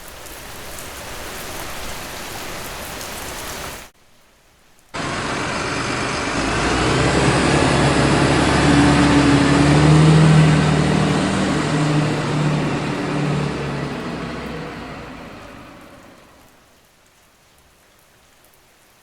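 Rain falling steadily, cut off abruptly after about four seconds. Then a vehicle passes on a wet road: a hiss with a low engine hum swells for several seconds and fades away.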